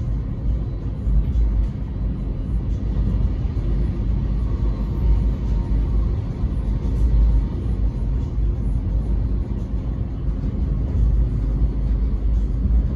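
X'Trapolis electric suburban train running along the track, heard from inside the passenger car as a steady low rumble with faint steady tones above it.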